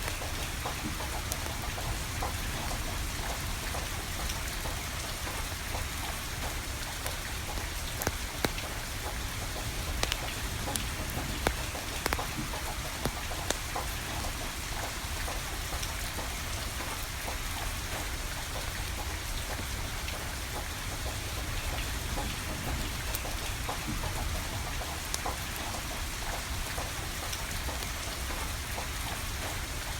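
Steady rain falling, with scattered sharp crackles and pops from a burning wood fire.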